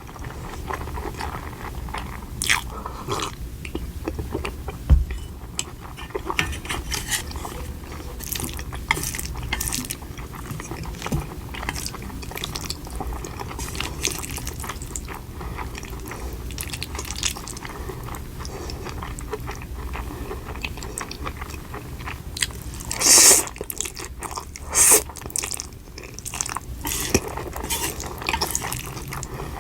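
Close-miked eating sounds: a person chewing and biting food, with many small wet mouth clicks throughout. Two louder, brief bursts come about 23 and 25 seconds in.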